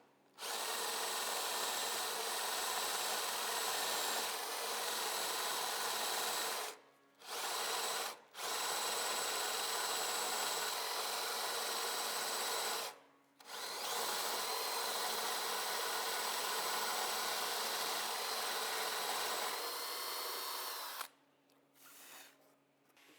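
Electric power drill running in long steady spells, drilling into wood and driving screws to fix a table top to its stand. It stops briefly three times and cuts off near the end.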